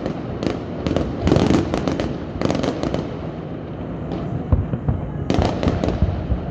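Aerial fireworks bursting in quick clusters of sharp bangs and crackles over a continuous rumble. There are volleys about a second and two and a half seconds in, a lull, then another cluster near the end.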